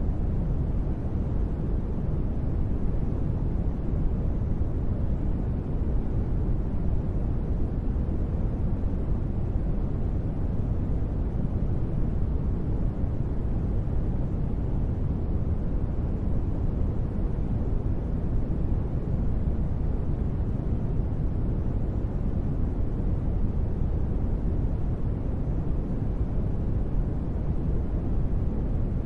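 Steady, unbroken ambient noise, deep and dull, with most of its weight low down and little hiss on top: a space-ambience noise bed.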